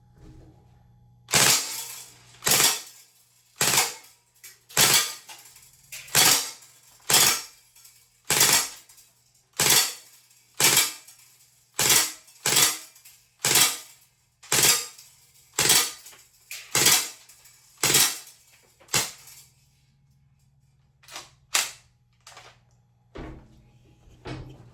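MP40 replica BB gun firing single shots: about seventeen sharp cracks, roughly one a second, then a few fainter clicks near the end.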